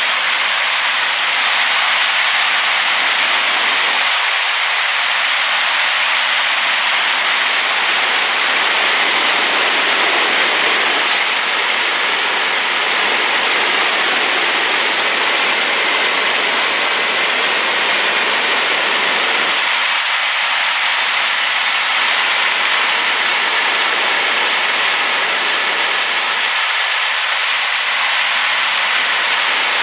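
Rain-swollen waterfall roaring steadily, a dense even rush of falling water with no breaks or changes.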